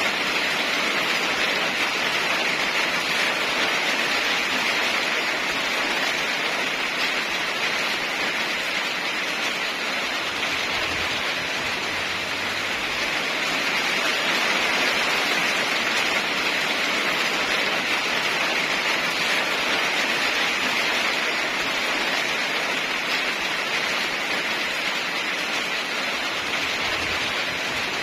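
Steady heavy rain: an even, unbroken hiss of downpour.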